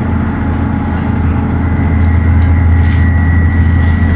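Dennis Trident ALX400 double-decker bus heard from inside, its diesel engine droning steadily under way. About halfway through a thin, high, steady whine grows stronger and the sound gets slightly louder, with a few brief rattles.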